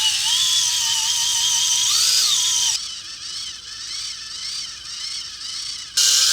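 Small electric motor of a homemade model tractor whining steadily, rising in pitch for a moment about two seconds in and cutting off near three seconds. After a quieter stretch with faint warbling chirps, the motor starts again loudly near the end at a lower pitch, as if under load.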